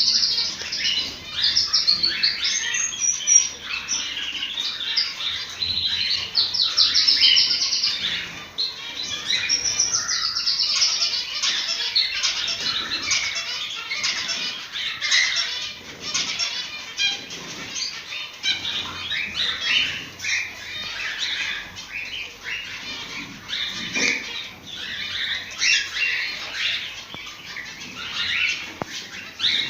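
A flock of cockatiels chirping and warbling continuously, many calls overlapping, the kind of colony song played to stimulate cockatiels to breed.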